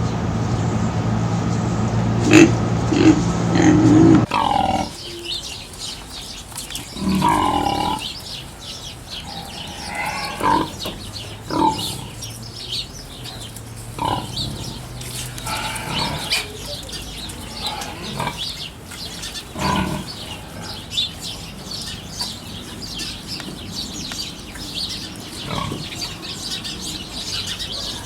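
Pigs giving short grunts and squeals at irregular intervals, over faint high chirping of small birds. For the first four seconds a steady mechanical hum runs underneath, then cuts off abruptly.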